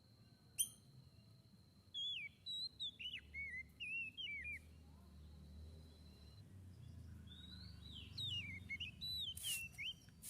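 Tledekan laut songbird singing two short bursts of quick whistled notes that slide up and down, about two seconds in and again near eight seconds. A thin steady high whine runs underneath and stops about midway, and there is one sharp click just after the start.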